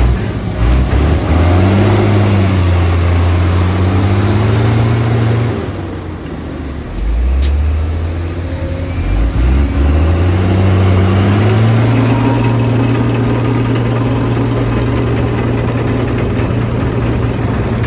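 Heavy diesel engine of earthmoving machinery working, its pitch rising and falling as it is throttled. It eases off about six seconds in, picks back up and runs steadily from about twelve seconds, with a high whine on top.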